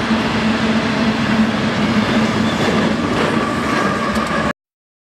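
Union Pacific empty coal train rolling past, its wheels running on the rails under the steady drone of its diesel locomotives. The sound cuts off suddenly about four and a half seconds in.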